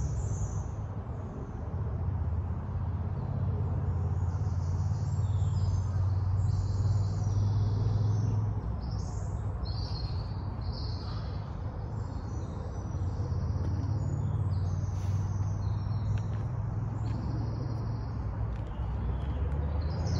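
Wild birds chirping and calling in many short, scattered notes over a steady low rumble, which dips for a few seconds midway.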